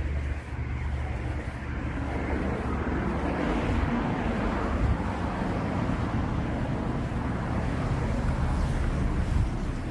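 Street traffic noise: a steady low rumble, with a passing vehicle's noise building from about three seconds in and holding.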